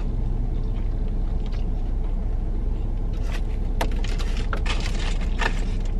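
Steady low rumble of a car's idling engine heard inside the cabin, with a few soft clicks and rustles in the middle.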